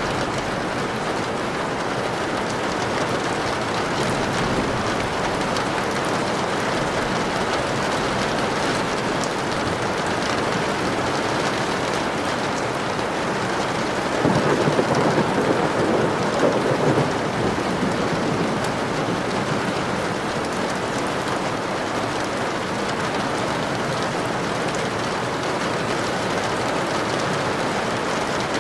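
Steady heavy rain, with a low rumble of thunder swelling about halfway through.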